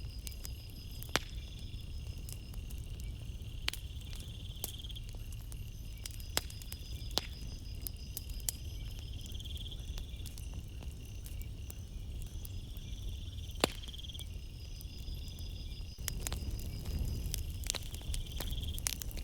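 Campfire crackling, with sharp pops scattered through it over a low steady rumble; the loudest pops come about a second in and about thirteen and a half seconds in. Crickets chirp throughout in repeated short trills.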